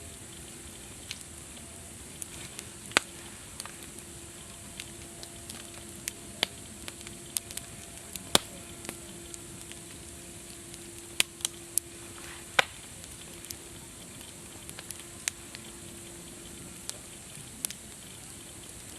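Campfire burning: wood crackling and popping in sharp, irregular snaps over a steady soft hiss, with a few louder pops scattered through.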